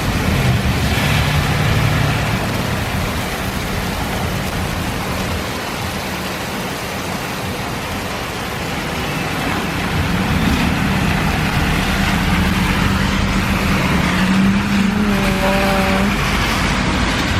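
Heavy rain pouring steadily, with the low hum of a car engine running on the road outside; the engine hum grows stronger about ten seconds in.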